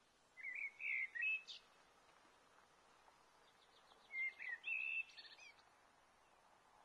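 A songbird singing two short warbled phrases about three seconds apart, each ending in a quick high rising note, over faint outdoor background hiss.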